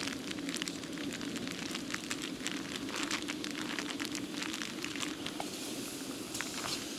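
Red onions and crumbled tofu sizzling in a frying pan: a steady sizzle thick with small crackling pops.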